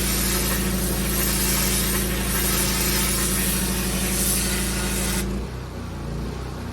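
Pressure washer running with its water jet hissing across block paving over a steady engine hum. About five seconds in the spray cuts off and the engine note drops and changes.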